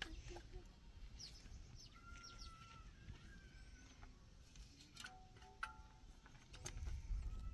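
Faint, scattered bird chirps and short calls, with a low rumble near the end.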